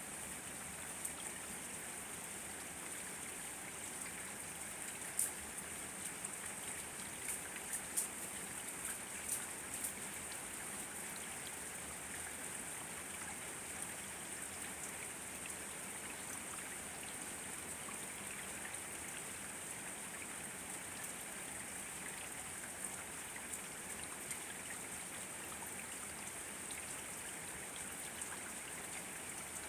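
Steady rain falling, an even hiss with scattered sharp drop ticks, several louder drops between about five and ten seconds in.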